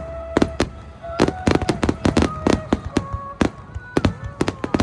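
Aerial fireworks going off in rapid volleys of sharp bangs and crackles, several a second, over a low rumble.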